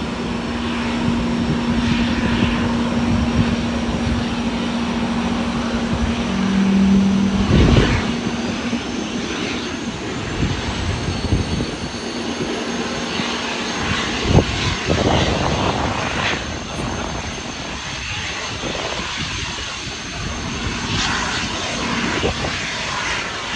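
Airbus A330 airliner's jet engines running as it comes in to land: a steady noise, with a low steady hum for the first several seconds.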